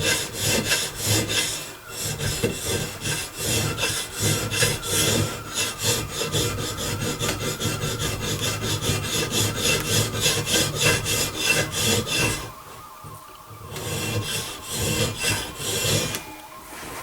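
A steel file being draw filed along a flintlock rifle's steel barrel in quick repeated rasping strokes, cutting off the old rippled high-polish finish. The strokes pause briefly about three-quarters of the way through, start again, and stop near the end.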